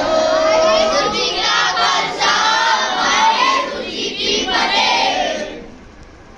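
Many children's voices shouting and chanting together as a group, breaking off about five and a half seconds in.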